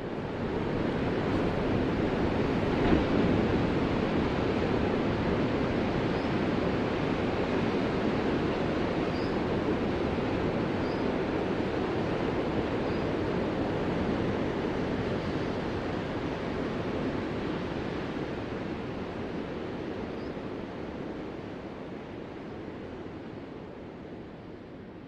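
Ocean surf: a steady wash of breaking waves that slowly fades over the last third.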